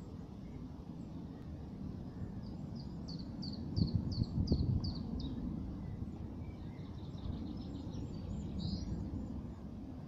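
A bird calling in two runs of quick, repeated high notes, each note dropping in pitch: one run starts about two and a half seconds in, the other near the end. A steady low rumble lies underneath and swells briefly around the middle.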